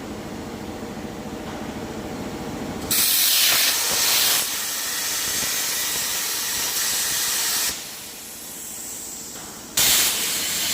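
CNC plasma cutter's torch hissing as it cuts, starting abruptly about three seconds in over a low rumble; the hiss stops after about five seconds and starts again abruptly near the end.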